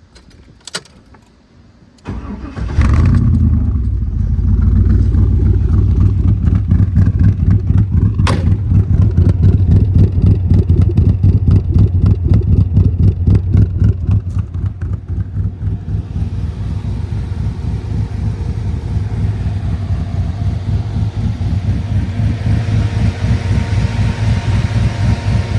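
A 1969 Corvette's LS3 V8 is started: after a click or two it cranks and catches about two seconds in, with a quick flare. It then idles with an even pulsing beat, the idle settling a little lower and quieter about two-thirds of the way through.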